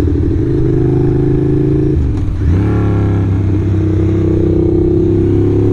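Ducati motorcycle engine running under way, heard from the rider's seat. About two seconds in the engine note drops briefly, as for a gear change, then pulls and rises again before settling to a steady cruise.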